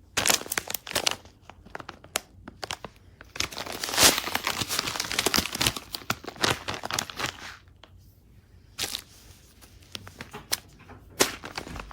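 Crinkling and rustling of plastic packaging being handled, with irregular sharp crackles and small clicks coming in uneven bursts.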